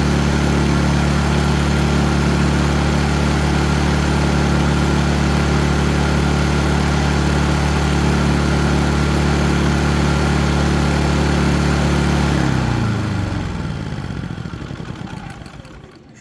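Predator 3500 inverter generator's single-cylinder engine running steadily, then shutting off about twelve seconds in, its note falling and the hiss fading as it coasts to a stop.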